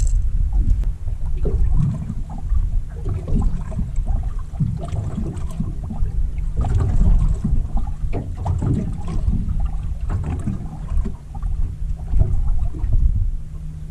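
Water sloshing and slapping irregularly against a small boat's hull, over heavy low rumble and a steady low hum.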